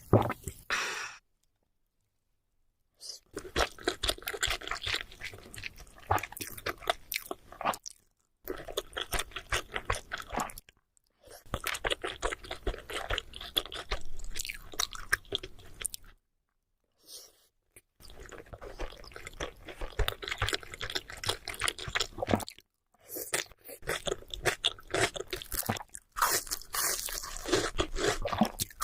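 Close-miked chewing of sushi rolls: dense, wet mouth sounds in stretches of several seconds, broken by short dead-silent gaps where the clips are cut together.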